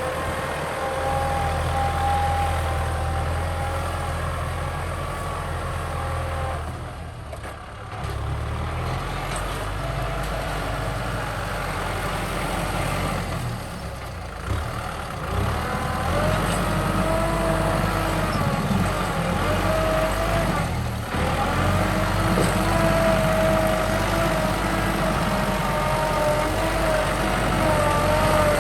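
Kubota M6040 tractor's diesel engine running under load while plowing, a steady low hum with whining tones above it that shift in pitch. The sound dips briefly about three times, each a little before the engine comes back up.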